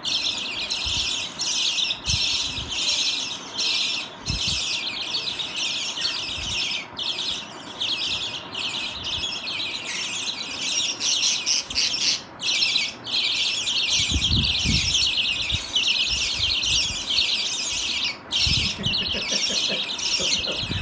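A flock of caged parrots chattering and chirping without pause, many birds calling over one another, with a few low bumps in the second half.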